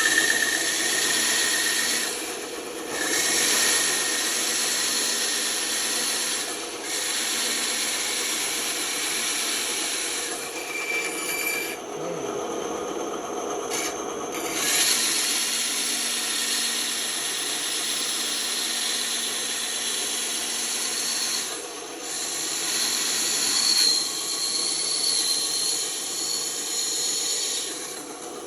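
Band saw cutting wood: a steady machine hum with the hissing rasp of the blade in the cut, breaking off briefly several times and for about two seconds near the middle as the workpiece is turned or backed out.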